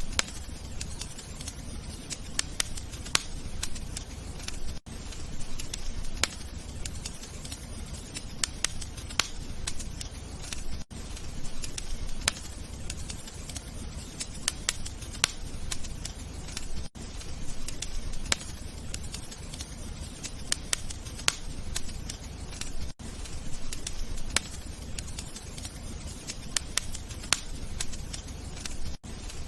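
Crackling wood fire: a steady low rumble with frequent sharp pops and snaps, broken by a brief dropout about every six seconds.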